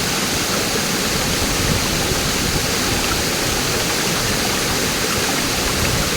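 Waterfall water rushing steadily, a constant even roar of falling and flowing water.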